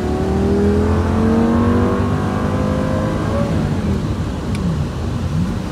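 Lamborghini engine under hard acceleration, heard from inside the cabin. Its pitch climbs steadily for about three seconds, then drops at a gear change about three and a half seconds in, and runs lower after that.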